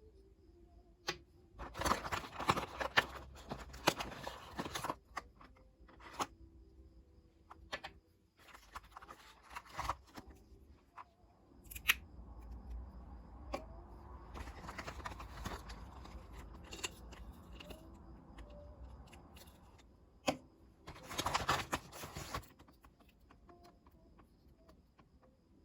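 Everyday handling noises: several bursts of rustling and clattering, with sharp single clicks and knocks between them.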